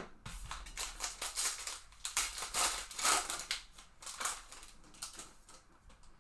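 Trading-card pack wrapper being torn open and crinkled, a quick run of crackling and rustling that starts with a sharp click and dies down about four and a half seconds in.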